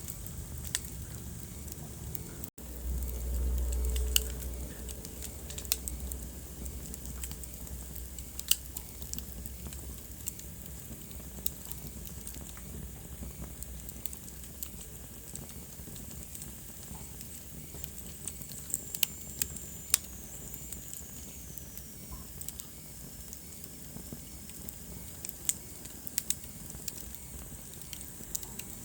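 Wood fire burning in a fireplace, crackling with frequent sharp pops over a steady hiss. A brief dropout about two seconds in is followed by a low rumble for a few seconds, and a faint high whistle slowly falls in pitch past the middle.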